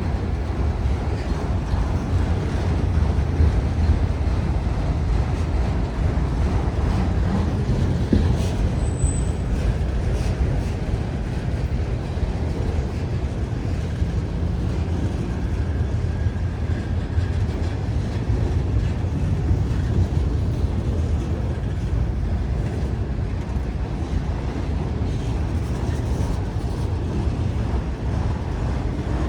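Freight cars of a long manifest train rolling past, a steady rumble of wheels on rail, with a brief high squeak about nine seconds in.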